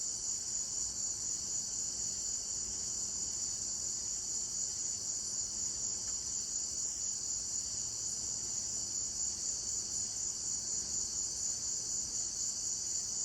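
A night insect chorus of many crickets trilling together in a steady, high-pitched drone that never stops.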